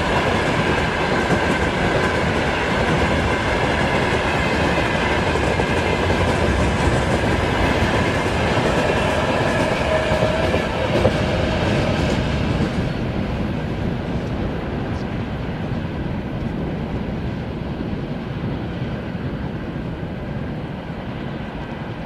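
Freight train wagons rolling past on the rails, a steady rumble with faint ringing from the wheels; about halfway through, the sound loses its brightness and slowly fades as the train moves away.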